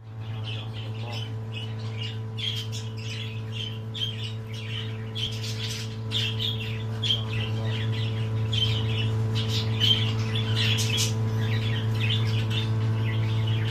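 Pet birds squawking and chirping in short calls that come again and again, some overlapping, over a steady low hum.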